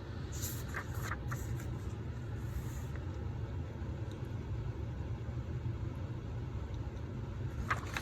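Steady low room rumble with a few faint rustles or clicks, a cluster about a second in and another near the end.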